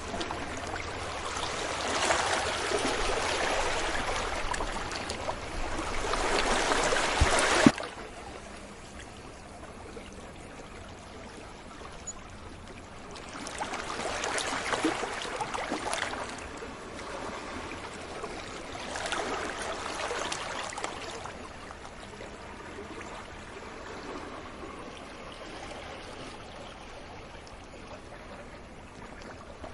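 Sea waves breaking on a beach: a loud wash of surf that cuts off suddenly about eight seconds in, followed by softer waves swelling in and fading away every few seconds.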